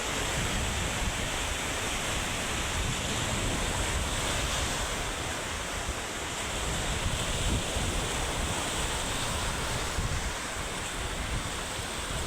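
Typhoon wind buffeting the microphone over the steady rush of heavy surf.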